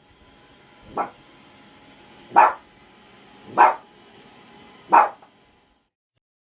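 A dog barking four times, single sharp barks a little over a second apart.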